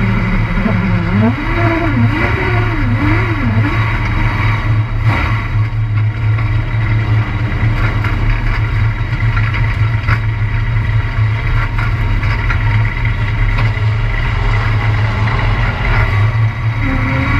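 Race truck's engine running heard from on board, a loud steady low rumble, its pitch rising and falling a few times in the first four seconds as it is revved.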